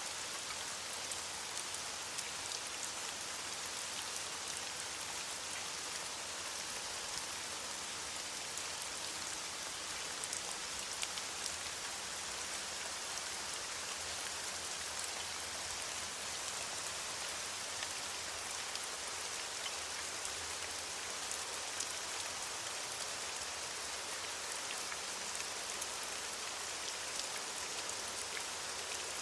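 Steady rain falling on leaves, a continuous patter of many small drops.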